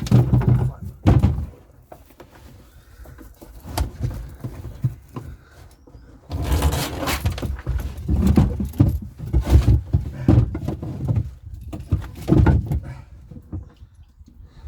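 Knocks, thuds and rattling of things being handled and moved about in a small enclosed space: a burst at the start, scattered clicks, then a long busy run of clattering from about six seconds in.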